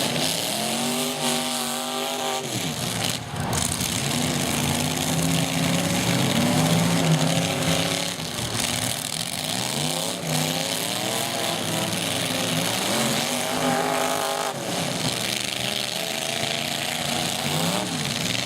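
Demolition derby truck engines revving hard, their pitch repeatedly climbing and dropping as several trucks rev over one another.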